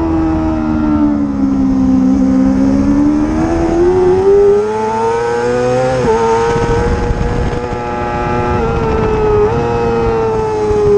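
Racing motorcycle engine under way at high revs. Its pitch dips, climbs for several seconds, breaks briefly with quick pitch steps around six and nine and a half seconds in, and falls away near the end, as the rider works the throttle and gears through corners.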